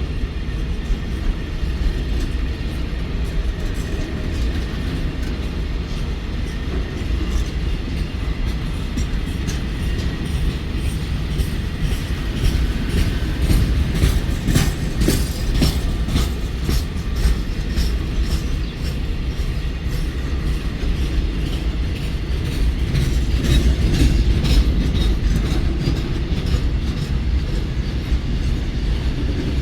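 Passenger train running along the track: a steady low rumble with clusters of wheel clicks over the rail joints, busiest around the middle and again near the end.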